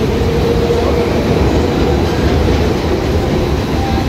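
Mumbai EMU local train running along the track, its wheels rumbling and clattering over the rails, heard from inside the coach. The noise is loud and continuous.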